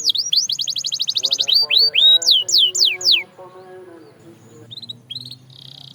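Canary singing: a fast trill of rapidly repeated, downward-sweeping whistled notes that slows into a few longer, lower sweeps about two seconds in. The song breaks off after about three seconds, leaving a few short notes, and a buzzy trill starts near the end.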